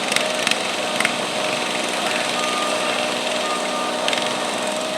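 Stock garden tractor engine running steadily under load while dragging a stoneboat in a pull, with a few sharp clicks in the first second.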